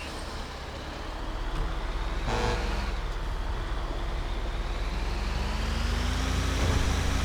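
Truck engine running with a steady low rumble, speeding up so its note rises slowly over the last few seconds. A brief sharper sound cuts in about two and a half seconds in.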